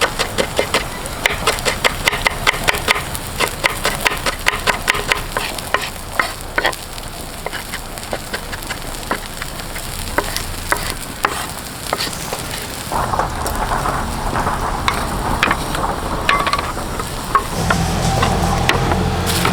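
A ladle clatters rapidly against a wok as rice is stir-fried, about four or five strikes a second, over a sizzle. The strikes thin out after about six seconds, and a low steady hum comes in near the end.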